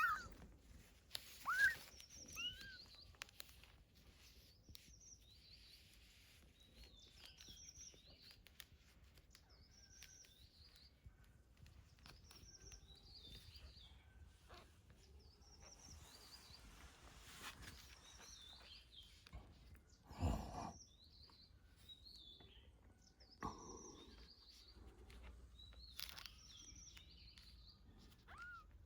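Small bird chirping over and over, short high calls every second or two, with a kitten meowing a few times at the start and once near the end. A single soft thump about twenty seconds in.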